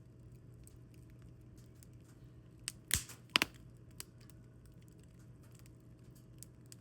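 Firewood burning in a fire pit, crackling with scattered small ticks and a few loud sharp pops about three seconds in.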